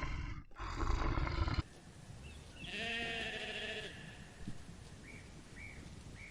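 Animal calls: a loud, rough call in the first second and a half, then a shorter pitched call about three seconds in, with a few faint short high chirps near the end.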